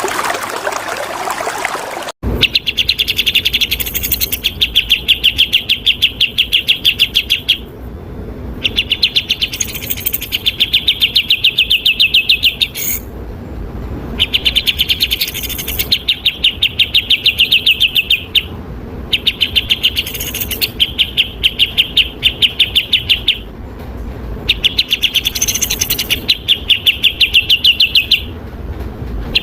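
Flowing water for the first two seconds, cut off abruptly. Then a songbird's loud, fast-repeated chattering song in bouts several seconds long, with short pauses between.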